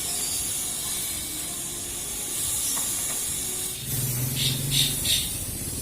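Thermal fogging machine spraying insecticide fog with a steady hiss. About four seconds in, a lower humming tone and a few short, sharper hisses join it.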